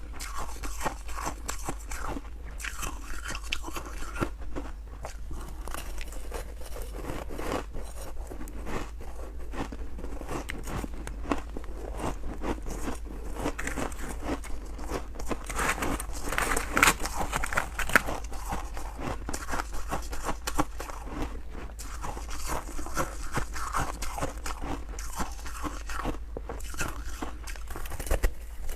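Close-up crunching of freezer frost being bitten and chewed: a continuous run of irregular crisp crackles, with a low steady hum underneath.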